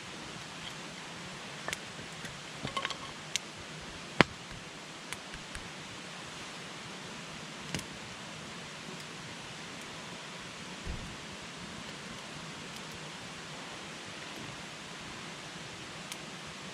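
Wood campfire burning with a steady hiss, broken by sharp crackles and pops: a quick run of them two to three seconds in, the loudest single snap about four seconds in, and a few scattered ones after.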